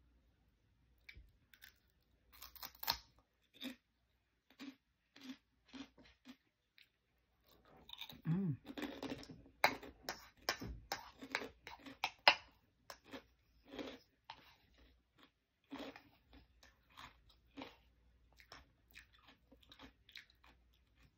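A person chewing crunchy food close to the microphone: irregular crisp crunches that come thickest in the middle stretch, sparser at the start and end.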